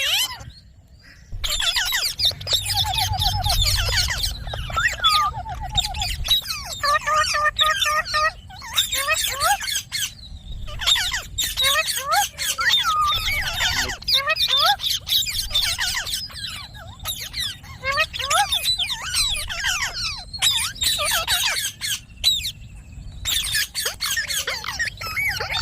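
Indian ringneck parakeet chattering: a steady run of sharp squawks, chirps and whistled up-and-down glides, with two short trills in the first six seconds.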